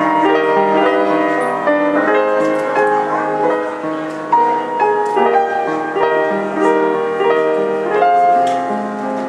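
Piano playing, with overlapping held notes and chords changing every half second or so.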